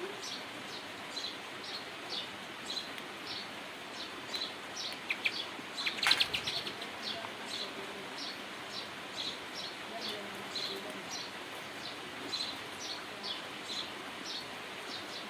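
A bird chirping over and over, short high chirps at about two a second, with a louder burst of calls about six seconds in, over a steady background hiss.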